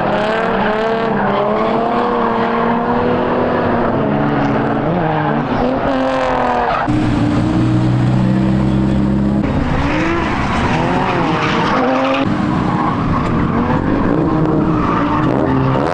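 Drift cars on track: engines revving up and down under hard throttle, with tyre squeal and skidding. The sound changes abruptly about seven seconds in and again about twelve seconds in.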